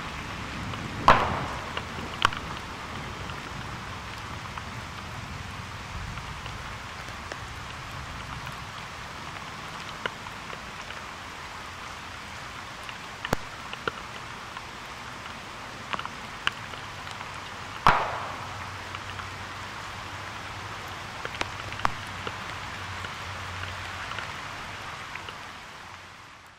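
Steady rain falling, with sharp single cracks at scattered moments, the two loudest about a second in and about eighteen seconds in, each trailing a short echo. A low thunder rumble comes and goes underneath, and the sound fades out at the very end.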